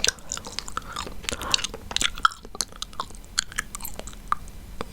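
Chewing gum close to the microphone: irregular wet smacking and clicking of the mouth.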